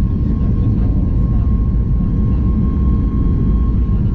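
Cabin noise inside a Boeing 737 MAX 8 with its CFM LEAP-1B engines running: a loud, steady low rumble with a thin steady whine above it.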